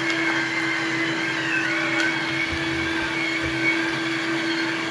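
Electric gear motors driving the hopper and conveyor belts run steadily, with the cooling fan on one motor running: a constant hum with a higher whine over it.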